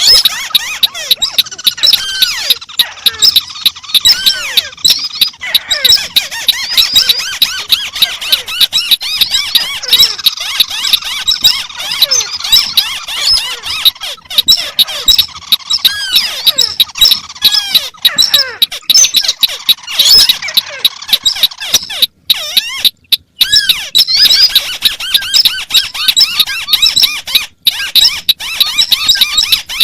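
Recorded crake calls, white-browed crake among them, layered into a dense, continuous chatter of high, squeaky chirps that overlap out of step with one another, as in a bird-lure track. The sound cuts out briefly twice a little after the twenty-second mark.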